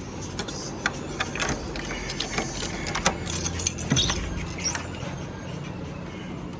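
A run of light clicks and rattles, as of things being handled, over a steady low hum; the clicks die away about five seconds in.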